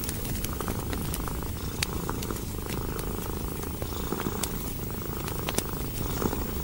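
Domestic cat purring steadily and close, with frequent small sharp crackles and pops from a wood fire burning in a fireplace.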